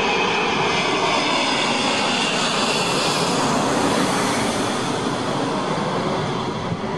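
Jet engines of an Airbus A380 on landing approach passing low overhead: steady rushing jet noise with a high whine that sinks slightly in pitch over the first couple of seconds.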